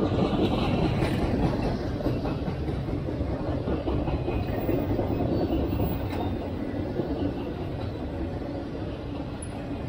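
Freight cars of a welded-rail train rolling past: a steady rumble of steel wheels on the track.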